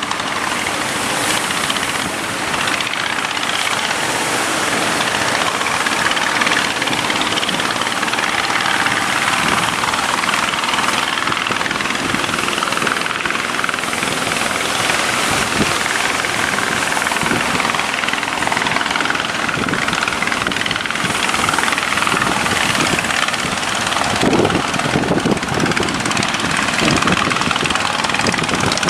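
Boat engines running steadily under way through heavy surf, with a loud rush of wave and wind noise over them.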